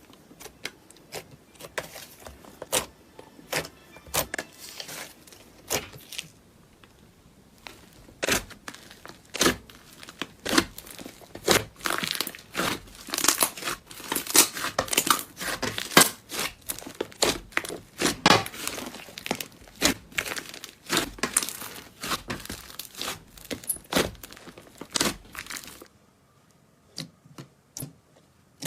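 Slime being squeezed and worked by hand, giving dense, irregular crackles and pops, thinning to a few scattered clicks near the end.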